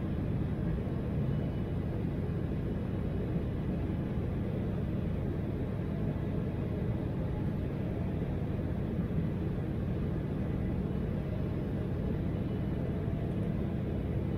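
Steady low rumble of an Embraer 175 airliner in flight, heard from inside the cabin: the twin turbofan engines and the rush of air past the fuselage.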